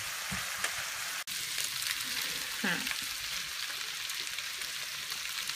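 Minced meat and vegetables frying in a pan: a steady sizzle with a few light clicks, breaking off for an instant about a second in.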